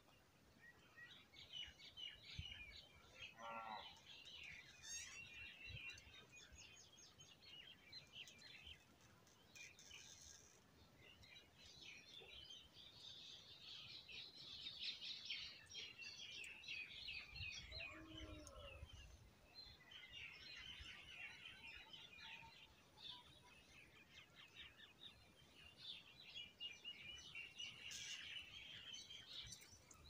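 Faint, dense chorus of many birds chirping and twittering, with a couple of lower calls standing out, one about three seconds in and one near the middle.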